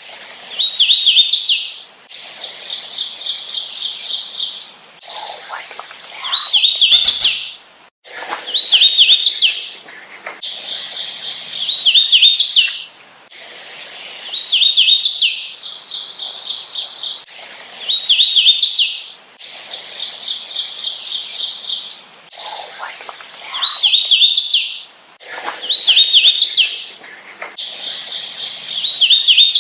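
Hooded warbler singing its song over and over, about one song every three seconds: a run of quick, clear repeated notes ending in a sharp rising flourish. The background hiss shifts abruptly between songs, as in a spliced, looped recording.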